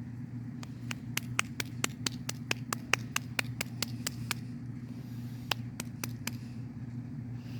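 A rapid run of sharp clicks, about four to five a second, then a few more after a short pause, over a steady low hum.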